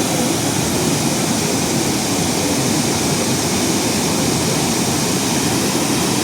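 A high-volume waterfall pouring down, a steady, loud rush of falling water.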